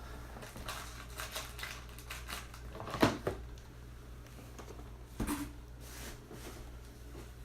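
Hands handling trading cards and their packaging: faint light rustling and ticking, with a sharper knock about three seconds in and another about five seconds in.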